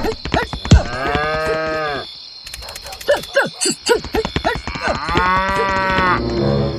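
A cow mooing twice, each moo a long call of about a second and a half, with short clicks and brief pitched blips between and around them.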